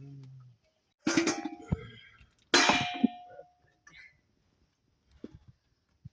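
Two metal clangs about a second and a half apart, each ringing briefly, like metal vessels or tools knocked together; a low steady hum fades out just before the first.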